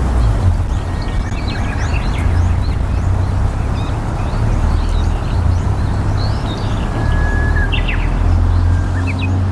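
Small birds chirping in many short, high notes over a steady low rumble.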